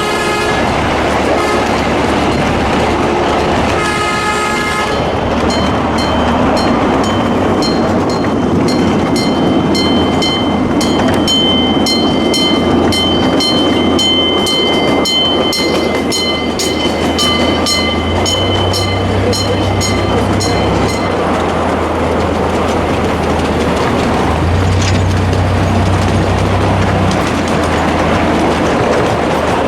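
Diesel-hauled train passing with a steady low rumble and wheel noise. Its horn sounds near the start and again about four seconds in. A bell then rings at roughly two strokes a second until about two-thirds of the way through.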